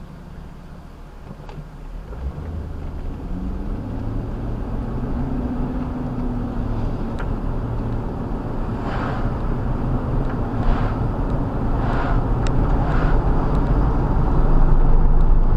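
A vehicle engine running and growing steadily louder, its pitch stepping up a couple of times early on, with a few short bursts of hiss in the middle.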